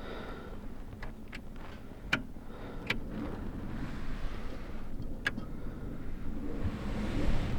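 Steady low rumble of strong wind, with a few sharp small clicks scattered through it.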